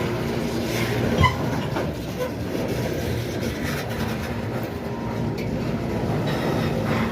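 Train rolling past, a steady rumble of wheels on the rails, with one sharp click a little over a second in.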